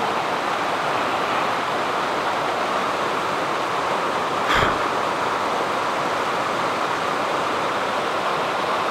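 Small woodland waterfall on a stream, water falling and rushing in a steady hiss, with one brief knock or thump about four and a half seconds in.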